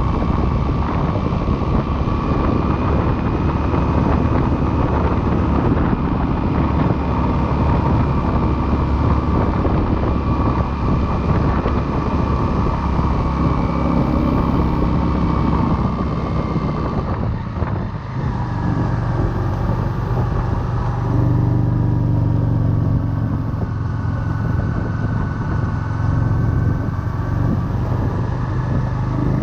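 Motorcycle engine running while riding, mixed with a continuous rush of wind and road noise on a chest-mounted camera's microphone. About 17 seconds in the sound dips briefly, then the engine's note comes through steadier and clearer.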